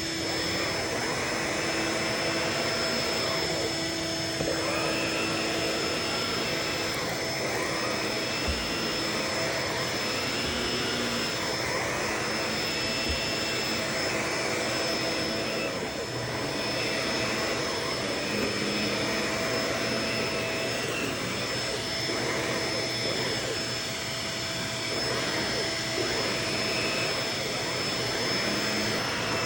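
Vacuum cleaner running steadily, its motor giving a constant whine over the rush of suction, with the sound swelling and easing as it is worked. A few soft low knocks come in the first half.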